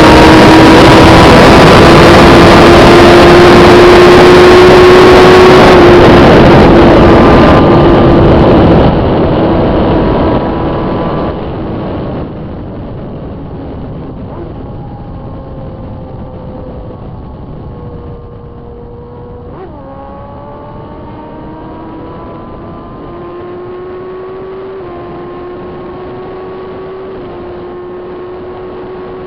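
Onboard sound of a 1000 cc inline-four sport bike at speed: very loud engine and wind noise at first, then the level drops in steps as the bike slows, and the engine runs on more quietly, its note falling and rising with a few gear changes near the end.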